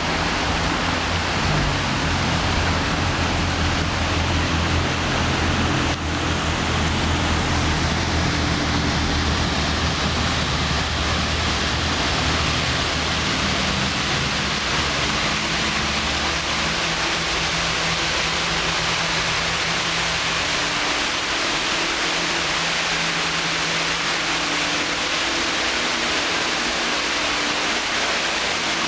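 Man-made park waterfall pouring steadily, a continuous splashing hiss of falling water, with a low hum underneath that is stronger in the first half.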